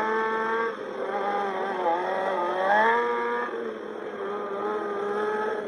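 Car engine held at high revs during stunt driving, its pitch wavering and briefly rising about halfway through.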